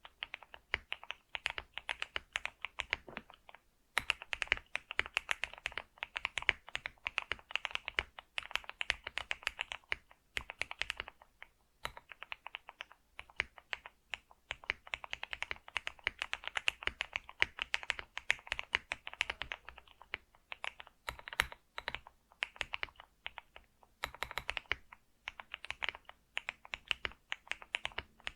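Typing on a computer keyboard: rapid runs of keystroke clicks with a few short pauses between bursts.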